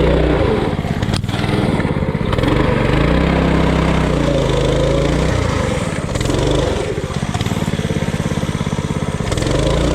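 Coleman RT200 mini bike's small single-cylinder engine revving up and down under heavy load as it pushes through deep muddy water, with a single knock about a second in.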